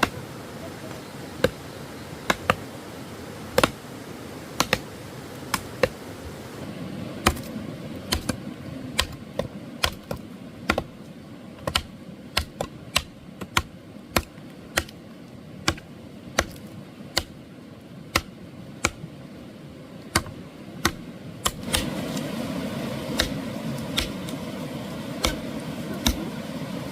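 Sharp knocks repeating irregularly, about one or two a second, over a low background rumble that gets louder about twenty-one seconds in.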